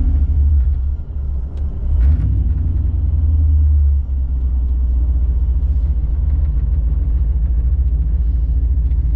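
LS-swapped V8 in a 1996 GMC 1500 pickup idling with a steady low rumble, a little louder for the first few seconds and then settling slightly lower about four seconds in.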